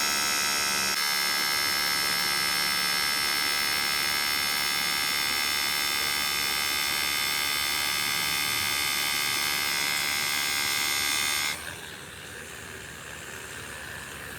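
A steady, high-pitched electric motor whine with many overtones. It shifts slightly about a second in and stops suddenly near the end, leaving a quieter background hiss.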